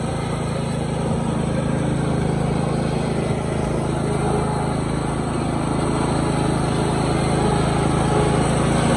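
Murray 14.5-horsepower riding mower engine running steadily as the mower is driven, a constant drone with no change in pitch.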